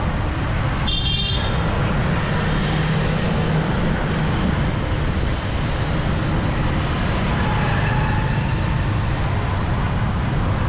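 Busy city street traffic, a steady mass of passing vehicle engines and tyre noise. About a second in there is a brief high-pitched squeal or toot, and later a faint short horn-like tone.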